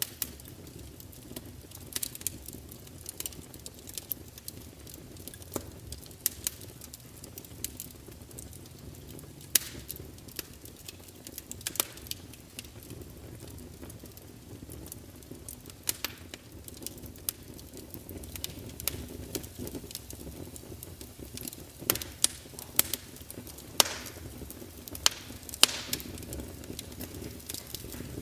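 Burning wood fire crackling: irregular sharp pops and snaps, some louder than others, over the steady low rush of the flames.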